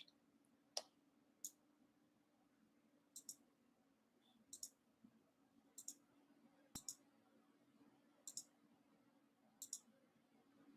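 Faint computer mouse clicks, mostly in quick pairs, coming about every second and a bit, over a faint steady hum.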